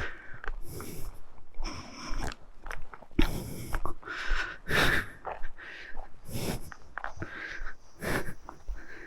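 Footsteps on a rough trail and a person's heavy breathing while walking, in short irregular bursts about every half second to a second.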